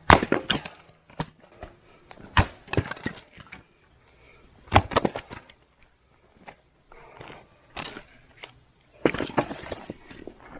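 Axe splitting firewood: four heavy strikes, each followed by the wood cracking and splitting, with smaller knocks of wood between.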